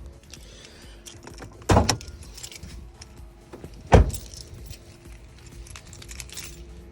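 Two solid thuds about two seconds apart as the car is opened up, with light clicking and jingling between them.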